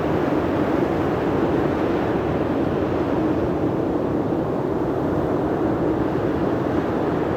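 Steady, unbroken rushing noise, strongest in the low-middle range, with no pitched tones and no changes.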